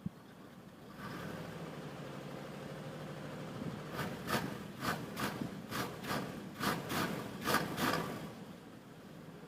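A car engine running steadily from about a second in, and over it a run of about ten quick scraping strokes between about four and eight seconds in.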